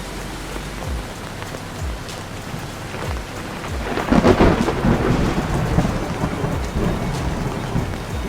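Heavy rain falling steadily, swelling louder about halfway through with a deep rumble.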